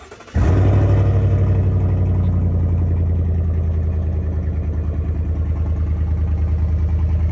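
Chevy Silverado's 5.3-litre V8 cranked and started with the muffler removed and the exhaust straight-piped: it catches about half a second in, flares, then settles into a loud, pulsing idle.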